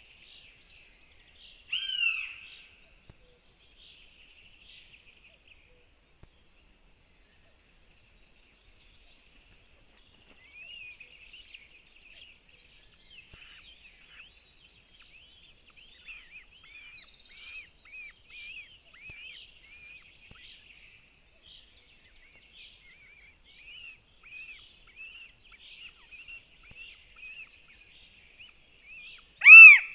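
Northern goshawk calls at the nest: one louder falling call about two seconds in, then a long run of faint, thin, repeated chirps from the nestlings, and another loud call right at the end.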